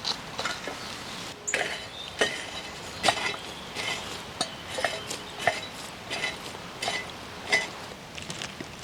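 Repeated light metallic clinks, about two a second, each with a short ringing tone after it.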